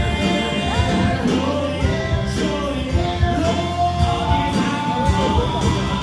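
Live band music with voices singing over a steady drum beat.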